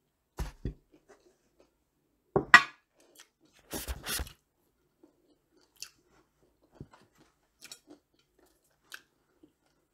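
Eating crispy fried chicken: a few crunchy bites and chewing, the loudest about two and a half seconds in, then only scattered small clicks and taps of handling.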